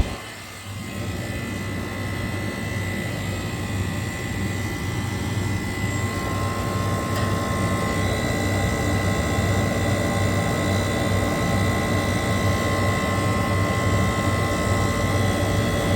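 Refrigeration condensing unit running: a steady mechanical drone with a low hum and a thin, constant high whine. Its condenser fan is moving very little air through the coil.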